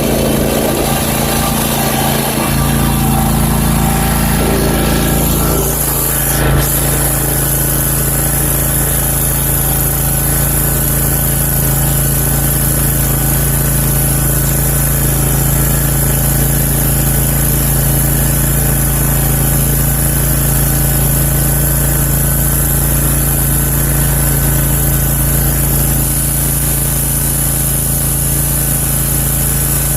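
Zero-turn lawn mower's engine running steadily under load. Its note shifts about two and a half and five and a half seconds in, with a brief knock soon after, then holds steady.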